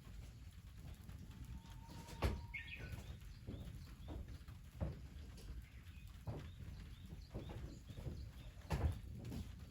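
Irregular sharp knocks and clacks, about one a second, over a low rumble, with one short high chirp about two seconds in.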